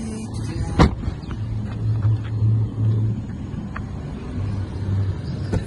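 A BMW 316i's 1.6-litre four-cylinder engine running steadily at idle, with a single sharp thud about a second in.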